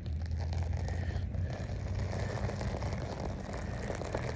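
A plastic sled sliding slowly over icy snow, making a steady scraping hiss over a low rumble.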